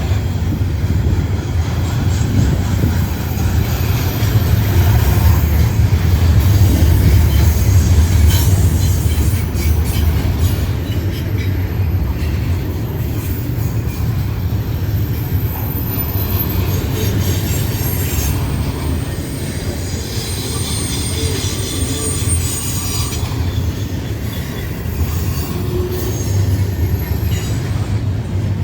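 CSX freight train rolling past on the grade: a steady, loud low rumble of wheels on rail, with high-pitched wheel squeal coming and going, strongest about two-thirds of the way through.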